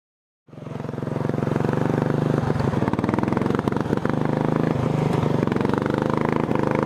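Racing lawn tractor's engine running steadily at speed. It cuts in abruptly about half a second in, out of dead silence.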